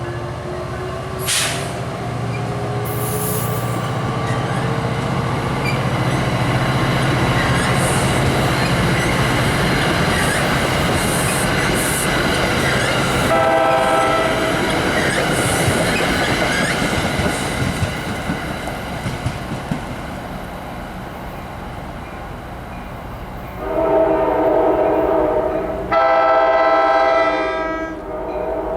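Train passing close by, its wheels and cars rumbling steadily, with a short blast of a multi-tone air horn about halfway. Two longer, louder horn blasts sound near the end.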